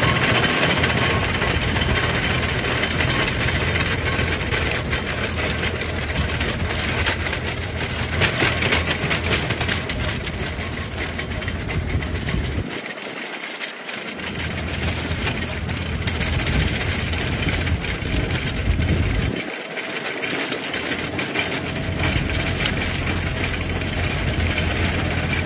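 Compact Yanmar tractor's diesel engine running under load while its PTO drives a 1300 mm rotavator whose tines churn and rattle through the soil. The deep engine drone drops out twice for a second or two.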